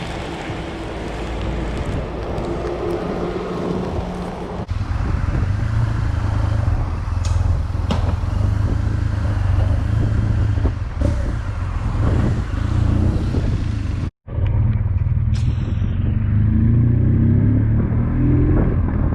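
Riding noise from a BMW R1200GS motorcycle in the rain: wind and wet-road noise over the low hum of the boxer-twin engine. The sound cuts out for a moment a little past the middle, and the engine note rises near the end as the bike accelerates.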